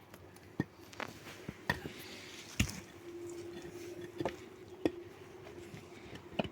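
Irregular light knocks and taps, about seven of them at uneven intervals, over a faint steady hum.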